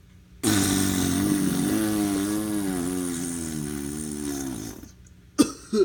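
Long raspy fart sound effect, wavering in pitch, starting abruptly about half a second in and stopping shortly before the end, followed by two short sharp sounds.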